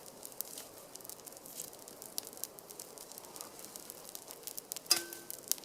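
Small wood campfire crackling, with scattered faint pops. A sharper knock with a short ring comes near the end.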